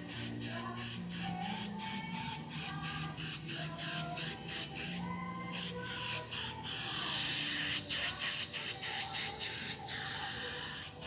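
Background music with a steady beat. Just past the middle, a loud hiss of paint being sprayed onto the refrigerator starts and runs for about three seconds before stopping.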